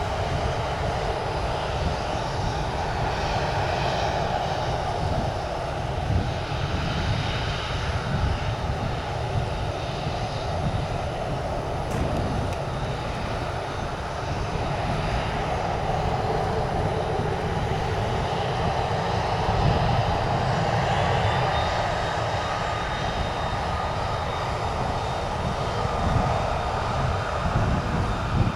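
Jet aircraft engines running, a steady rumble that swells about four seconds in and again a little past the middle.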